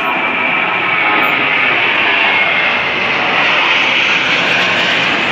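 Jet airliner engines, a loud steady roar with a high whine in it. It swells over the first second and then holds steady.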